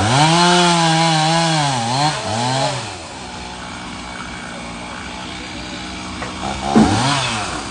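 Two-stroke chainsaw running at high revs as it cuts into a fallen tree, the pitch wavering and dipping twice. About three seconds in it drops back to a steady idle, then revs up again briefly near the end.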